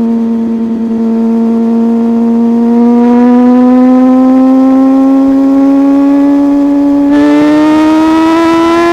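Superbike engine running at high revs, its note held steady and then rising slowly as the bike accelerates. About seven seconds in, a second, slightly lower engine note joins it.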